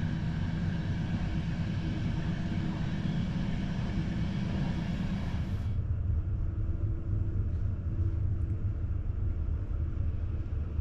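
Steady running rumble of a passenger train moving along the track. About halfway through, the sound changes abruptly: the high hiss drops away and a lower rumble is left.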